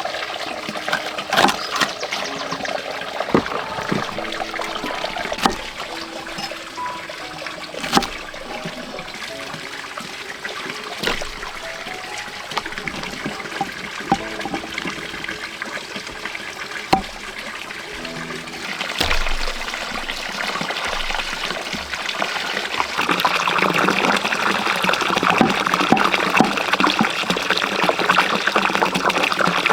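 Water trickling and pouring, with scattered sharp knocks; the water grows louder about three-quarters of the way through.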